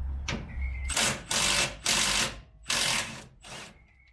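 Cordless power tool run in four short bursts, each about a third of a second long, backing out the bolt that holds a parking brake cable bracket.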